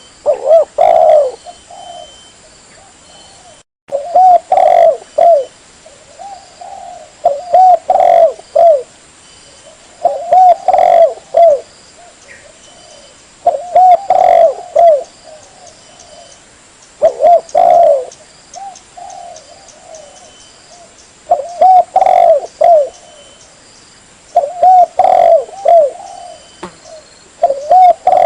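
Spotted dove (tekukur) cooing: loud phrases of several short coos, repeated about every three to four seconds, played as a hunter's lure call.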